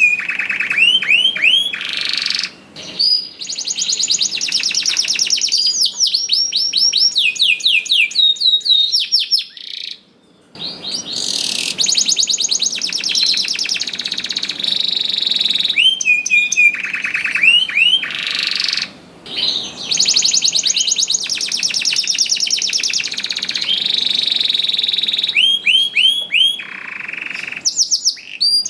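Domestic canary singing in full song: long phrases of very fast trills and rolls, high-pitched, with three short pauses.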